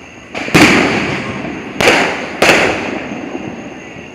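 Fireworks going off: a short crack, then three loud bangs in quick succession, the first the loudest, each trailing off in a rolling echo.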